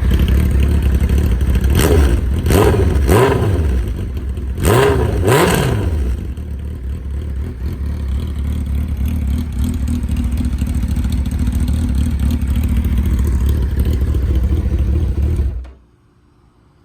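2006 Suzuki Hayabusa's 1299 cc inline-four running through a shorty exhaust. It idles with five quick throttle blips in the first six seconds, three close together and then two more, and runs steadily after that. The sound cuts off abruptly near the end.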